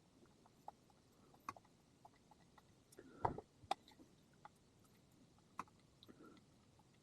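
Faint scattered clicks and light knocks of peppermill parts being handled and fitted during assembly, with a louder knock about three seconds in and another about five and a half seconds in.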